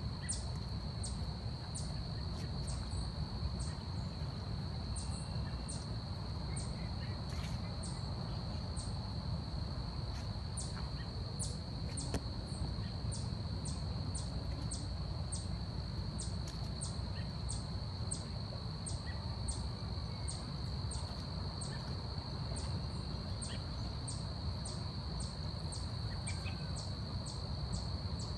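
Forest insect chorus: a steady high-pitched drone with short sharp chirps repeating about every half second, over a steady low rumble.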